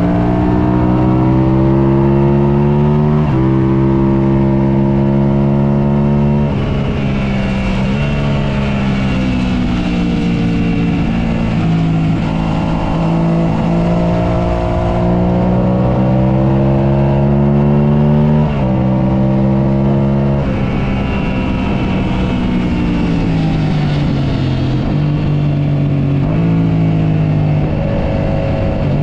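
Onboard sound of a motorcycle at speed on a race track: the engine note climbs and falls several times, breaking off sharply at gear changes and as it slows for corners, over a steady rush of wind.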